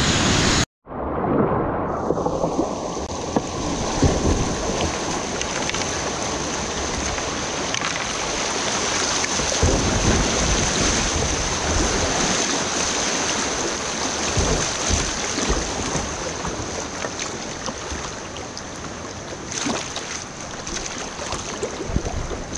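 Creek whitewater rushing, a steady dense noise with gusty low rumbles on the microphone. It cuts out briefly just under a second in, then comes back.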